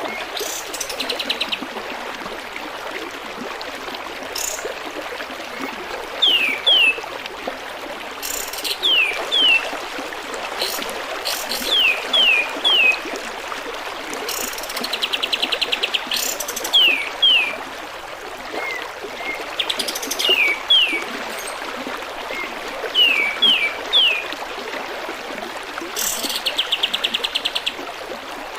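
Kapas tembak bird song: repeated groups of two or three quick downward-sweeping whistles, alternating every few seconds with a rapid buzzy trill, over a steady trickle of running water. It is a masteran track, a recorded song played to caged songbirds for them to learn.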